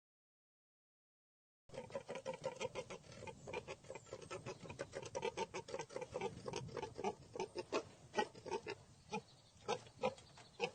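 A farm animal making a rapid string of short calls, several a second. The calls start about two seconds in after silence.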